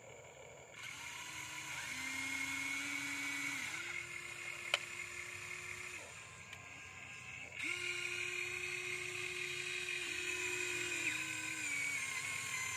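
Huina 1593 RC excavator's small electric motors whining in spurts, the pitch stepping up and down every second or two as the arm and bucket move. There is a single sharp click about five seconds in.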